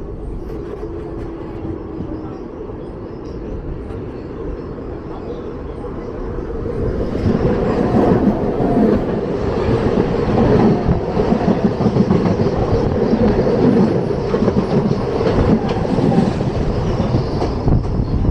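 Mumbai suburban electric local train running at speed, a steady rumble of wheels on rail. About seven seconds in, an oncoming local train on the next track passes close alongside, a much louder rushing clatter that lasts until near the end.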